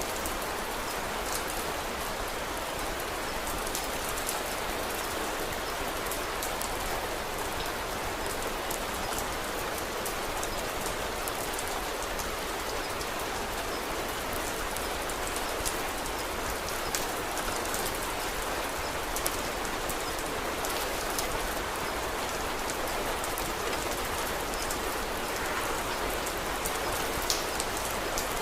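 Steady rain falling, an even hiss with many small sharp clicks scattered through it.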